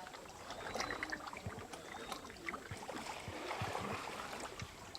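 Kayaks being paddled on calm sea: paddle blades dipping and water trickling and splashing, with scattered soft knocks.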